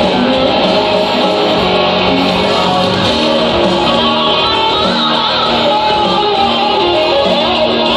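Instrumental rock played live, led by electric guitar with a continuous melodic line over a full backing.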